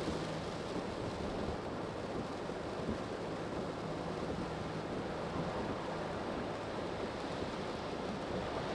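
Steady tyre and road noise heard inside a moving car on a rain-wet road, with a faint low engine hum underneath.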